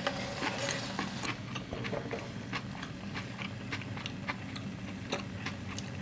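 Close-up mouth sounds of someone chewing hot pot noodles: irregular small wet clicks and smacks, several a second, over a steady low hum.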